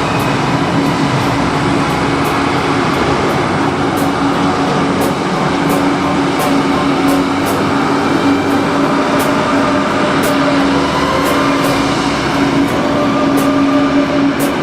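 A train running, a steady rumbling noise with a constant hum.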